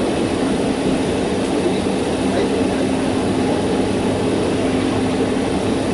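Passenger train running at speed, heard from inside the carriage by an open window: a loud, steady rumble of wheels and running gear with an even hum through it.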